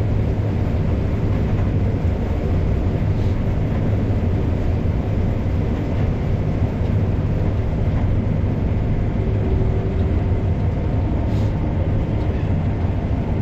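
Case IH 7230 combine running steadily, heard from inside the cab: a constant low drone with a faint steady whine above it.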